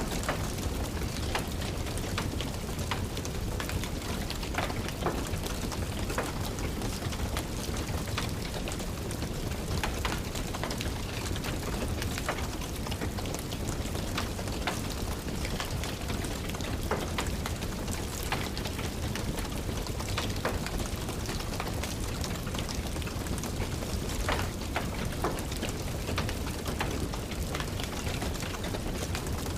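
Steady rain with a wood fire crackling in a fireplace: irregular sharp snaps over a constant rushing hiss and a low rumble.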